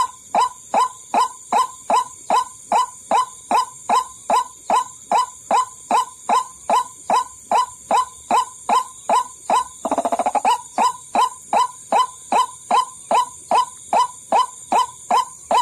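White-breasted waterhen (ruak-ruak) lure call: harsh calls repeated steadily about three times a second, each dropping in pitch, with a brief rapid run just past the middle. It is a trapping lure call meant to draw waterhens in.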